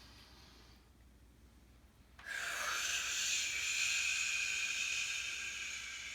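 A person blowing out a long, slow breath through the mouth after a quiet held breath. The exhale starts about two seconds in and keeps going. It is the out-breath of a calming 'volcano breath' exercise.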